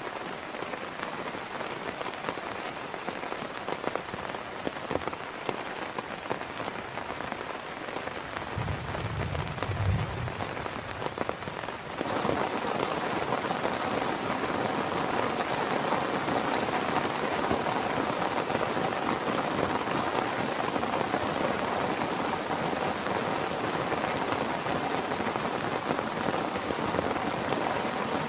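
Heavy rain falling steadily, with a brief low rumble about nine seconds in. The rain becomes suddenly louder about twelve seconds in and stays that way.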